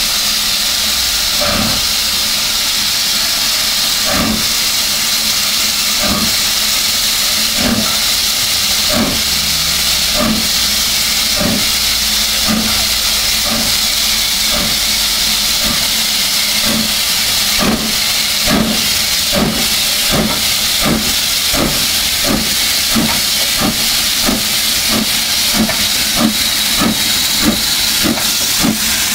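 Steam locomotive pulling away under steam, its exhaust chuffs quickening from about one every second and a half to nearly three a second, over a steady hiss of escaping steam.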